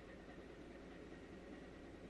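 Faint, steady low rumble and hiss of a ship under way, with a faint thin whine on top.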